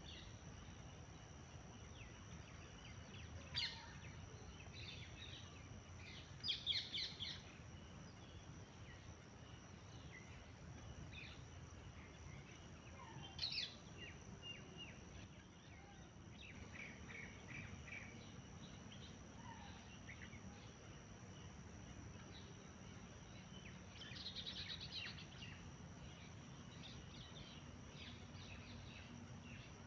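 Birds chirping faintly in scattered short calls, with louder bursts of quick notes now and then, over a low background hiss and a steady high thin tone.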